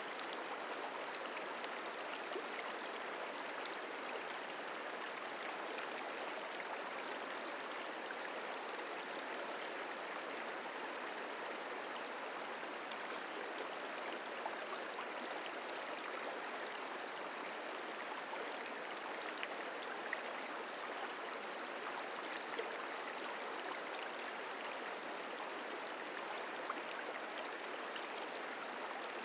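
The Merced River flowing: a steady, even rush of moving water, with faint ticks of water here and there.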